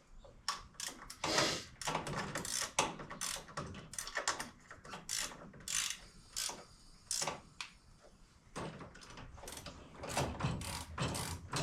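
Ratchet wrench clicking in short, irregular strokes with metal tool clinks, as a fitting is worked and tightened.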